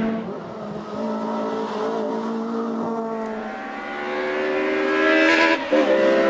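Honda Civic EK9 race car engine at high revs, easing off early and then rising steadily in pitch as the car accelerates, with a brief break in the note near the end.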